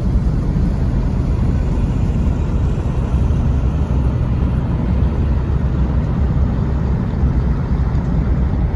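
Engine of a large commercial vessel running steadily as it moves up the river, a constant low drone with a haze of noise above it.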